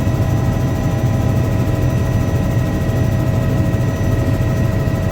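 Helicopter running steadily: a dense low rotor thrum with a fast flutter, under a steady high turbine whine.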